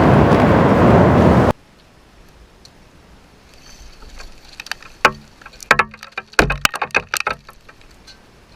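Strong wind buffeting the microphone, which cuts off suddenly about a second and a half in. After it, a quiet stretch with a scattered run of clicks and knocks.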